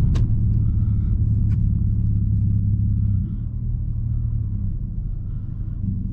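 Straight-piped 2020 Nissan Altima exhaust running with a steady low rumble. About three seconds in it drops to a quieter note, settling toward idle.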